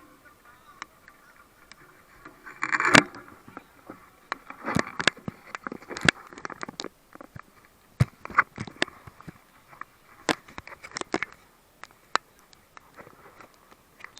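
Football being kicked during an amateur small-sided match: a string of sharp, irregular knocks, the loudest cluster about three seconds in.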